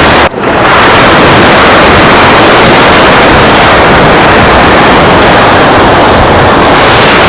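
Loud, steady rushing noise of wind and surf on an open beach, with a brief dropout about a third of a second in.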